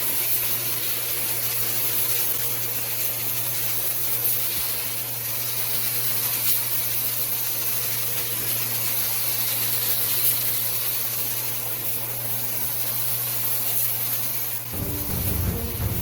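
Compressed-air paint spray gun spraying primer: a steady, even hiss that starts suddenly, over a steady low hum. Background music comes in near the end.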